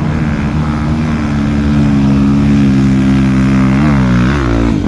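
Off-road motorcycle engine running at a steady pitch, then revving up and down in two quick blips near the end before the sound cuts off suddenly.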